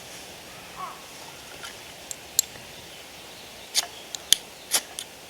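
A fire striker being struck to throw sparks onto char cloth: about seven sharp, short metallic strikes at irregular intervals, most of them in the second half.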